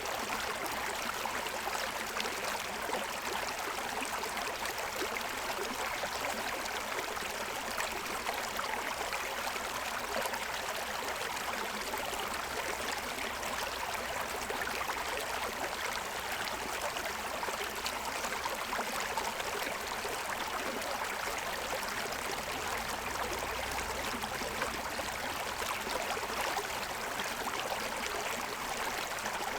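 Forest stream running over the stones of its bed, a steady rushing and babbling.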